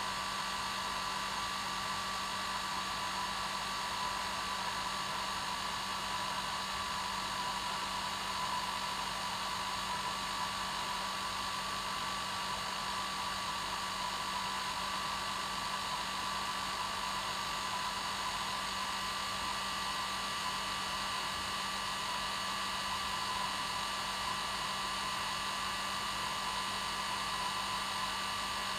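Hair dryer running continuously: an even, unchanging rush of air noise with a steady low motor hum and a higher steady whine.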